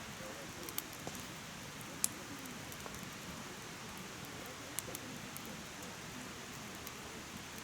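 Wood fire burning in a mesh fire pit: a steady soft rush of flame with a few sharp crackling pops from the burning logs, the loudest about two seconds in.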